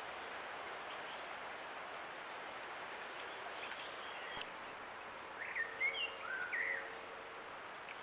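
A small bird giving a short run of chirping notes about five and a half seconds in, lasting about a second and a half, over a steady background hiss.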